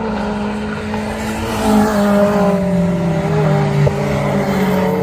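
Engines of several hot hatch race cars running hard at once. One car passes close about a second and a half in, and its engine note drops as it goes by.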